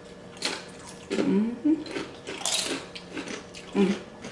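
Close-up eating sounds: tortilla chips with salsa crunched and chewed, with a few short murmured vocal sounds.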